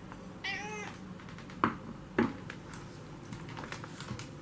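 Siberian cat giving one short, high-pitched meow about half a second in, demanding to be fed. Then come two sharp knocks about half a second apart, followed by a few faint clicks.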